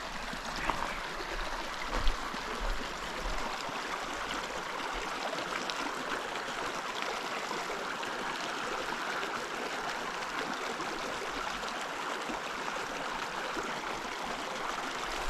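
Small mountain creek flowing over rocks: a steady rush of running water.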